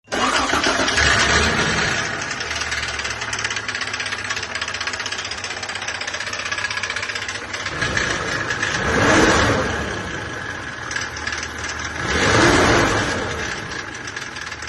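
Toyota Land Cruiser 80 series engine running with a rhythmic knock, revved up twice, about eight and twelve seconds in. The owner traces the knock to failed bearings, having found metal shavings.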